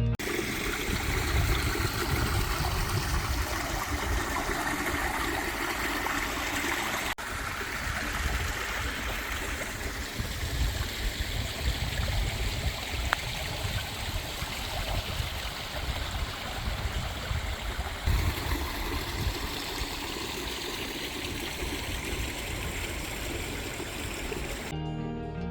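Small stream flowing over its bed: a steady rushing, trickling water sound, with an uneven low rumble underneath.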